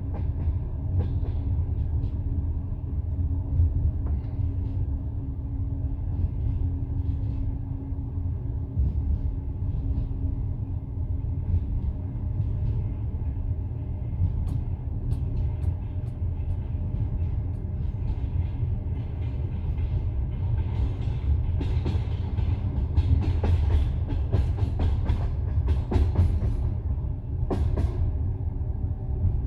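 Passenger train carriage rolling along the track, heard from inside: a steady low rumble and hum with the knocking of the wheels, the clicks growing busier in the second half.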